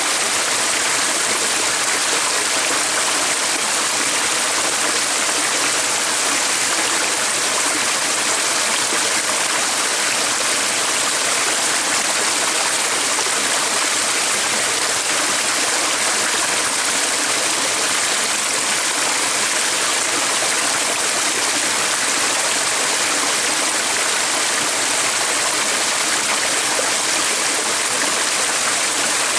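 A stream running, a steady, unbroken rush of water.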